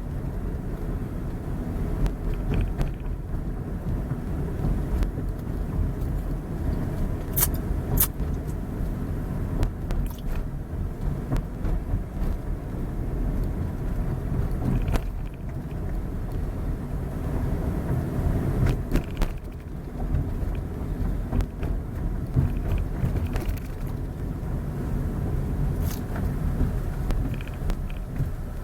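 Steady low rumble of a motor vehicle on the move, with a few brief clicks.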